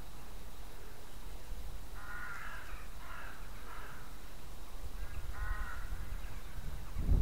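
A bird calling four times: three short harsh calls in quick succession about two seconds in, then a fourth about a second and a half later.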